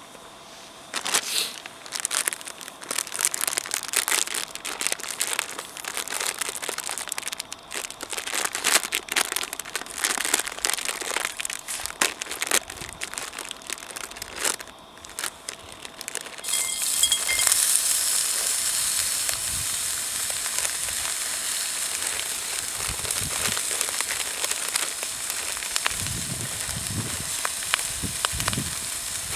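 Cooking over a campfire: irregular crackling and snapping, then a little over halfway through a steady sizzle sets in, like food going into a hot wok. A few soft low thumps come near the end.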